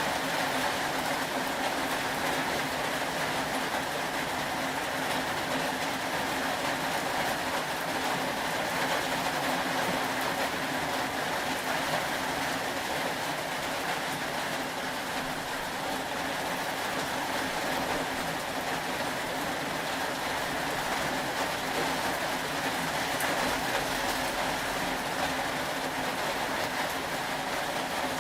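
Steady rain, an even unbroken hiss, with a faint low hum underneath.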